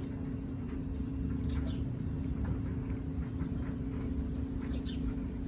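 A steady low mechanical hum, with a few faint short sounds over it.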